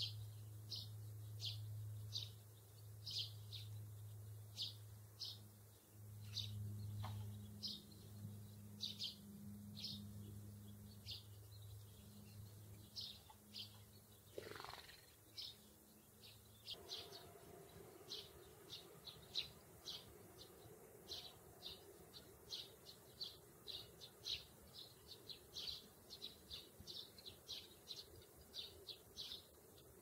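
A small songbird giving a long run of short, high chirps, one every half second or so at first and coming faster in the second half. A low steady hum runs underneath and stops about halfway through.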